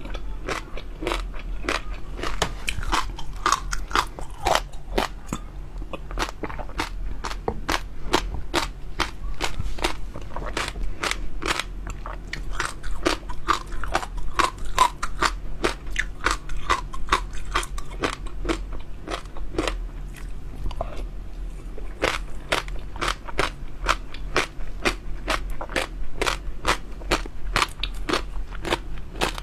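Close-up eating sounds: a person chewing crunchy jelly pearls, giving a fast, continuous run of sharp crunching clicks, several a second.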